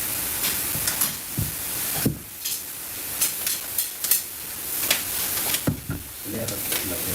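Kitchen noise: a steady hiss with a run of sharp clicks in the middle and a few dull knocks.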